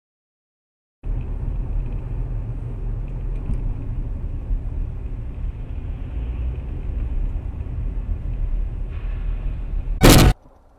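Steady low rumble of a car driving, as picked up by a dashcam, ending just after ten seconds in with one loud, short bang, the loudest moment.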